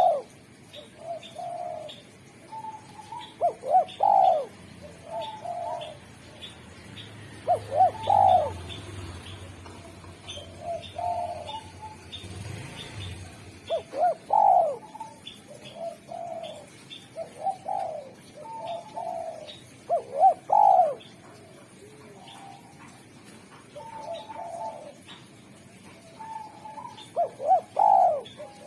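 Spotted dove cooing over and over, a phrase every two to four seconds. Faint, short high chirps repeat in the background throughout.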